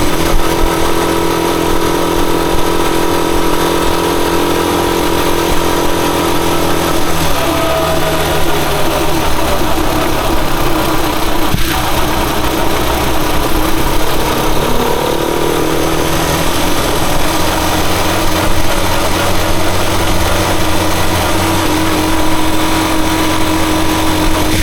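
Rusi Chariot 175 motorcycle engine running steadily under way. Its pitch drops about seven seconds in and climbs back up around fifteen seconds in.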